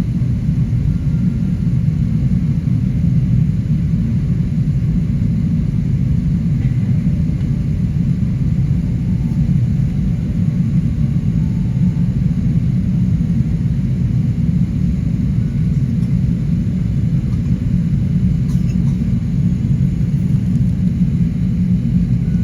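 Steady low rumble of an Airbus A380 airliner, heard from inside the cabin, holding an even level throughout.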